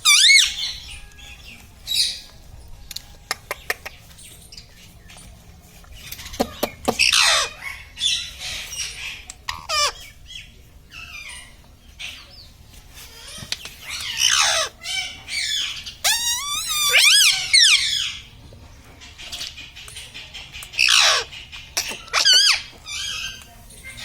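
Indian ringneck parrot calling: loud, high screeching calls a few seconds apart, one breaking into a fast warble partway through, with short clicks in between.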